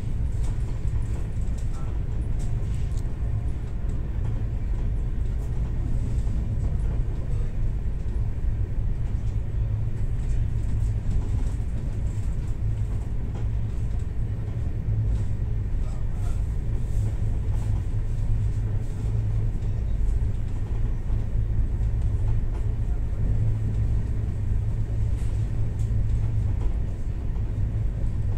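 Steady low rumble of a moving passenger train heard from inside the carriage behind closed windows, with faint clicks now and then.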